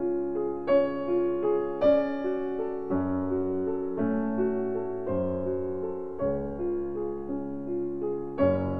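Background piano music: a calm melody of held notes changing about twice a second, with louder chords struck about a second in, again shortly after, and near the end.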